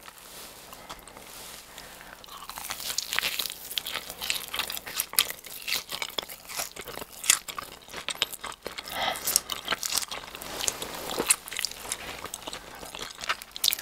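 Close-miked eating of a giant fried cheese ball: the crisp fried bread crust crunches and crackles between the teeth as it is bitten and chewed with its stretchy cheese filling. The crunches are sharp and irregular, starting about two seconds in.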